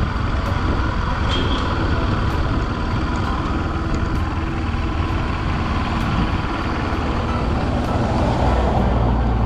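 Steady road noise from a moving motor vehicle, with a low, even engine hum throughout.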